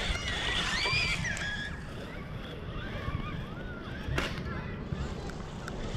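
Brushless RC monster truck's electric motor whining, its pitch rising and falling over and over as the throttle is worked, over a steady low wind rumble on the microphone.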